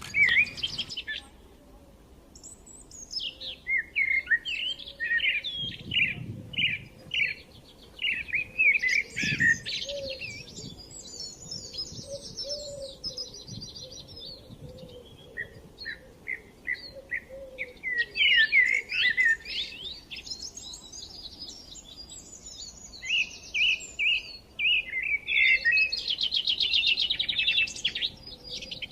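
Small songbirds chirping and singing in quick, varied high phrases, with a fast trill near the end.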